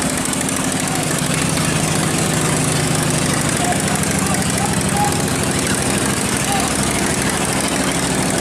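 Boat engine running steadily with a low, even drone, over a continuous rushing hiss.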